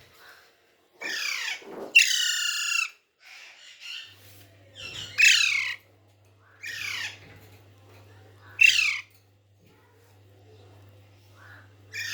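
Pet parrot squawking: about five harsh calls, most of them sliding down in pitch, with one longer call about two seconds in. A faint steady hum comes in about four seconds in.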